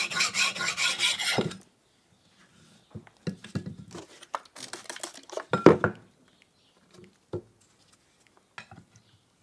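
A steel knife blade stroked quickly back and forth on a diamond sharpening stone, an even rasping at about five strokes a second that stops about a second and a half in. After that come scattered light knocks and clicks of the blade and stone being handled, the loudest about halfway through.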